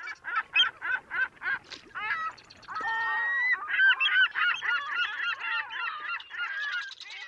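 A flock of birds calling: short, arched calls one after another, thickening into a dense chorus of overlapping calls about four seconds in.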